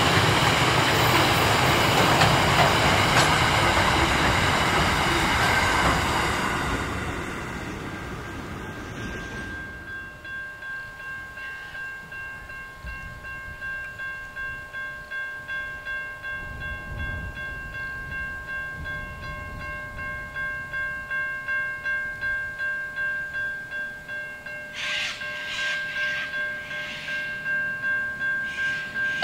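A freight train of steel-coil wagons rolling past loudly, fading away over the first several seconds. A level-crossing warning bell then rings steadily with a quick pulsing beat while a Vlocity diesel railcar approaches, with a few short louder sounds near the end.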